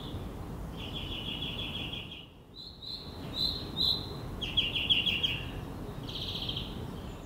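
A songbird singing in short, quick trilled phrases, four or five in a row with brief gaps, over a steady low outdoor rumble.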